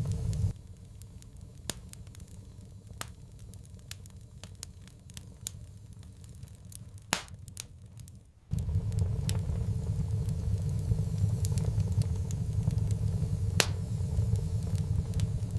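Wood fire crackling in a fireplace, with irregular sharp pops and snaps. A steady low rumble of the burning fire drops away just after the start and comes back a little past halfway.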